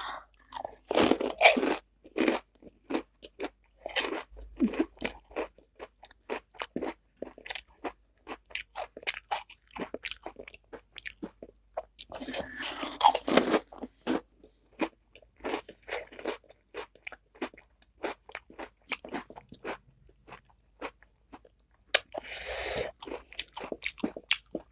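Panipuri being eaten: crisp fried puri shells filled with spiced water crunching and being chewed, in many short crackles, with two longer stretches of dense crunching about halfway and near the end.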